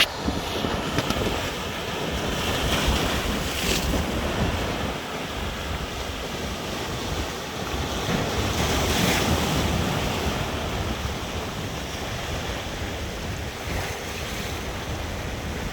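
Sea waves washing in as a continuous rushing surf, swelling louder at about three and nine seconds in, with wind rumbling on the microphone.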